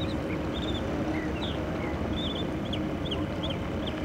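Small birds chirping in many short, quick calls over a steady low background rumble with a faint hum.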